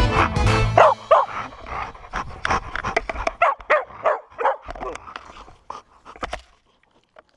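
A dog makes many short whines and yips while tugging on a wooden stick, mixed with short clicks. Background music stops about a second in, and the dog sounds trail off near the end.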